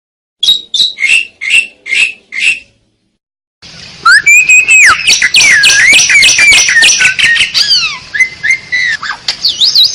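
Asian pied starling (jalak suren) calling: six short, falling calls about two a second, then after a brief pause a loud, fast, varied song of whistles and chattering notes.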